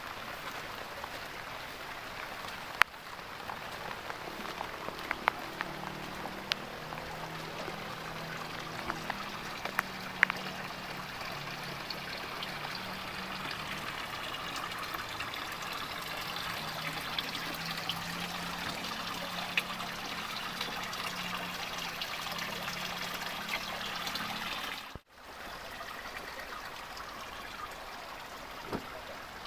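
Heavy rain falling steadily, with water trickling and pouring and scattered sharp drips and taps. A low hum runs underneath for much of it, and the sound drops out for a moment near the end.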